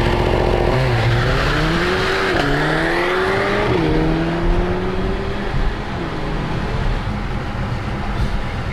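Car engine accelerating hard through the gears: the engine note climbs, dips at three quick upshifts, then fades away as the car pulls off into the distance.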